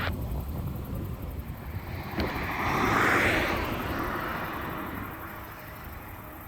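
Jet airliner engine noise that swells to a peak about three seconds in and then fades, with a single click shortly before the peak.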